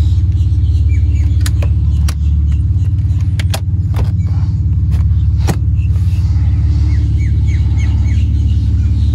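Mercedes-Benz 300TE's AMG 3.4-litre 24-valve straight-six idling steadily with a deep, even rumble. A handful of sharp clicks and knocks come in the first half.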